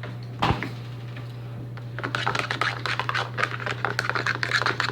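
Shaving cream slime being stirred with a fork in a container: a single knock about half a second in, then from about two seconds a run of quick squishing, scraping strokes. A steady low hum runs underneath.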